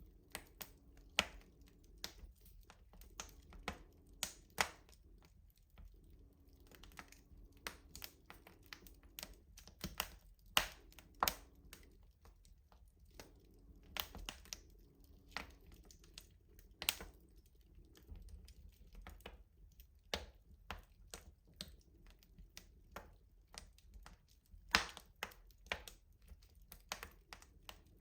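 Wood fire crackling in a traditional rustic stove: a steady run of irregular sharp snaps and pops from the burning wood, several a second, with a few louder pops standing out.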